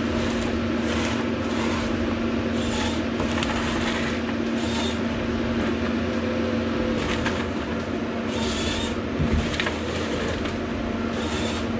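An engine running steadily at constant speed, a steady droning hum with faint hissing surges about once a second.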